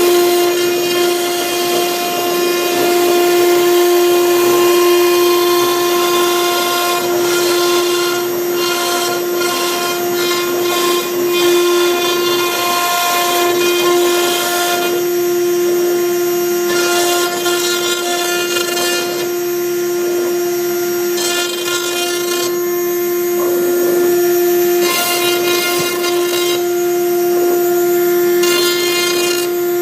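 CNC router spindle whining steadily while a V-bit engraves MDF. The cutting hiss over it comes and goes as the bit cuts and then lifts clear between strokes.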